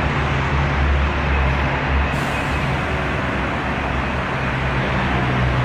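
Steady, loud machinery noise with a low, continuous hum beneath it.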